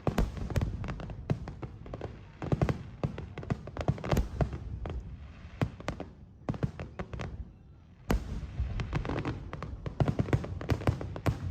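Fireworks display: a rapid, dense volley of bangs and crackles over a low rumble. It eases off briefly about seven seconds in, then the bangs pick up again.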